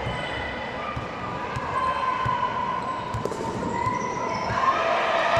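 Distant voices calling out across an open sports ground, with a few dull low thumps. It grows louder near the end.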